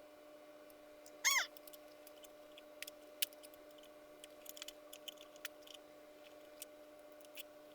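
Light clicks and taps of small plastic parts being handled and fitted, with one short squeak about a second in, over a steady electrical hum.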